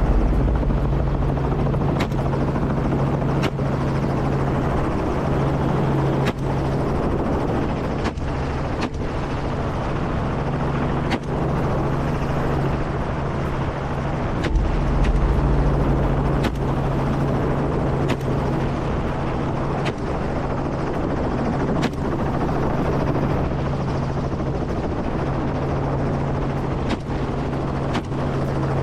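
Helicopter running steadily with a constant low rotor and engine drone, broken by about a dozen sharp cracks at irregular intervals, one to three seconds apart.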